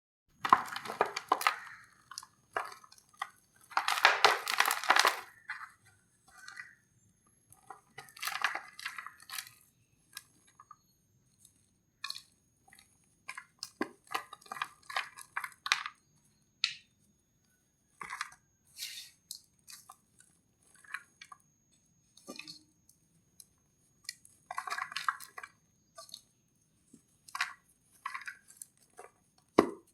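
Dry sand-cement crumble being crushed, crunching and crackling in irregular bursts with short quiet gaps; the longest and loudest crunch lasts about a second, some four seconds in.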